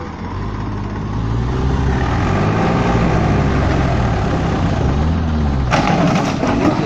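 Tractor engine running, its pitch rising and falling repeatedly. About six seconds in, a sudden harsh noisy burst breaks in over it.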